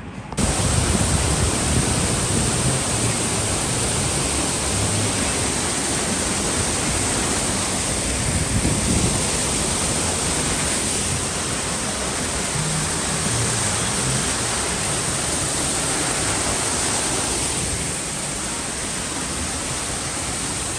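Steady, loud rushing of falling water, like an indoor waterfall, with faint music underneath. It starts abruptly about half a second in.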